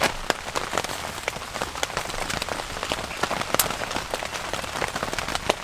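Steady rain falling, with many sharp drop impacts ticking irregularly against a surface.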